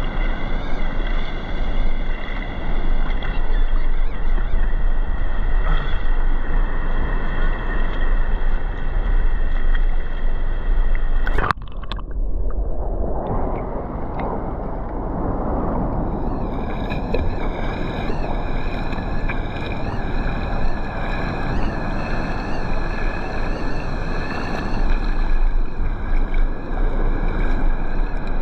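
Steady wind noise buffeting the microphone over the wash of ocean surf. A sharp click comes about eleven seconds in, and the sound thins for a few seconds before the rush builds back.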